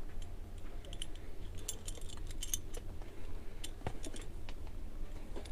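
Small metal parts clinking and rattling as they are handled: light, scattered clicks with one sharper knock about four seconds in.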